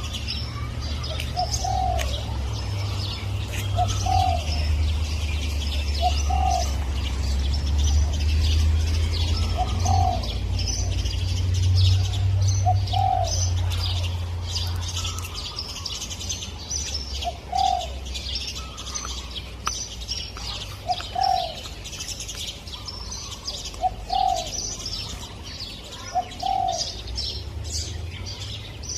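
Spotted dove cooing: short arching coos repeated every two to three seconds over a busy chorus of small birds chirping. A low rumble under the first half fades away about halfway through.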